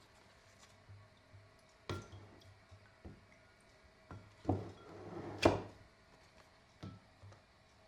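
A few knocks and clatters of household objects being handled, the loudest about five and a half seconds in, with a rustling, scraping stretch just before it.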